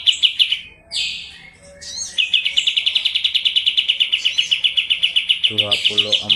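Kapas tembak songbird singing a fast, even rattle of chirps, about nine a second, with a short break about a second in before the rapid run resumes.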